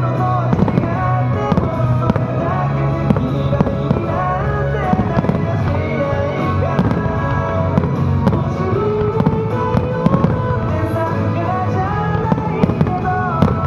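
Aerial fireworks bursting, with frequent sharp bangs and crackles, over show music with a melody and steady bass.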